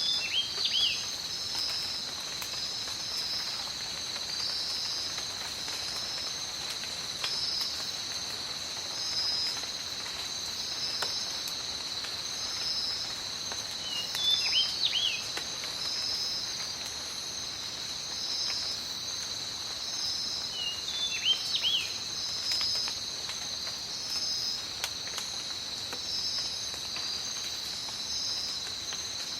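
Tropical rainforest ambience: rain falling as a soft steady hiss with scattered drips, under a continuous high insect drone and a pulsing insect call. A bird gives a short chirping call three times: near the start, about halfway, and about two-thirds of the way through.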